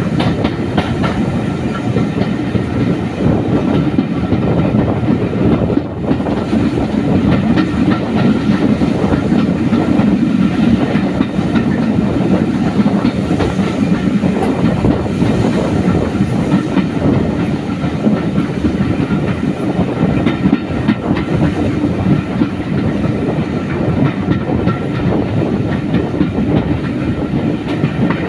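Steam-hauled passenger train running steadily along the line, its carriage wheels clattering over the track, heard loud and close from an open carriage window.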